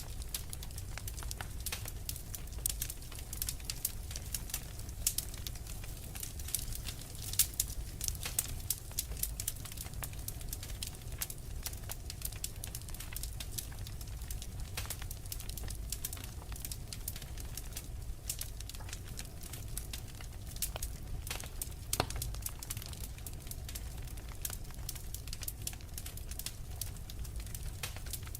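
Wood fire crackling and popping in a fireplace: dense, irregular snaps over a steady low rumble, with a couple of louder pops.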